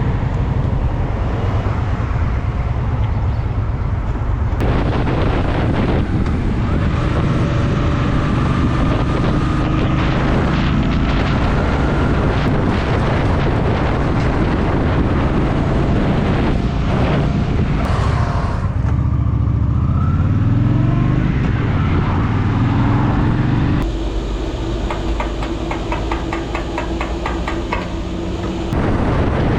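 Honda Shadow VT750's V-twin engine running while under way. About twenty seconds in its pitch climbs as it accelerates, and for about five seconds near the end it runs noticeably quieter.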